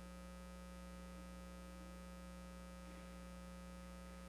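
Faint, steady electrical mains hum with a few fixed tones and no change through the pause, the background hum of the recording's sound system.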